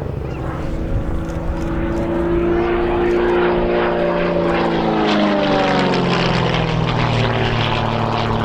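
Gamebird GB1 aerobatic plane flying past, its piston engine and propeller growing louder over the first few seconds. The engine note drops in pitch about five seconds in as the plane goes by.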